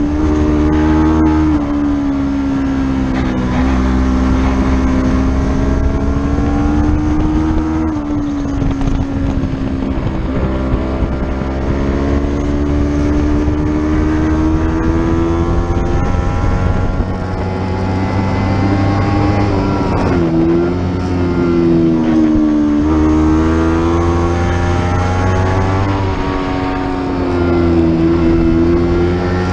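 Racing motorcycle engine at speed, pulling up through the revs with sharp drops in pitch at gear changes, over wind noise.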